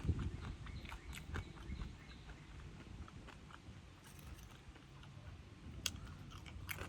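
A person chewing food close to the microphone: a string of small, wet mouth clicks and smacks.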